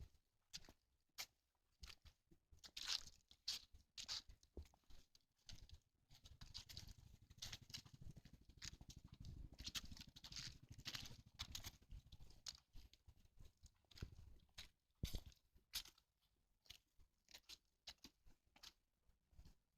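Dry fallen leaves crunching and rustling in quick, irregular bursts as a dog scrabbles and trots through them, with a low rumble for several seconds in the middle.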